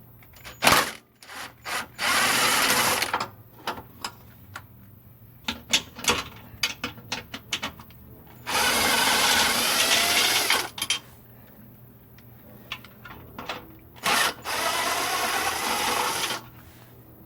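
Power tool running in three bursts of a second or two each, loosening the subframe bolts, with short clicks and clanks of tools on metal in between.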